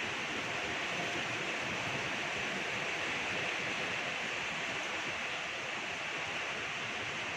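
Steady rainfall, an even hiss of rain falling.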